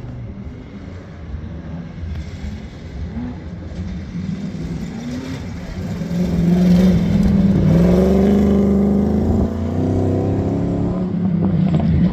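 Competition safari off-road vehicle's engine running and revving, growing much louder about halfway through as the revs dip briefly and climb again.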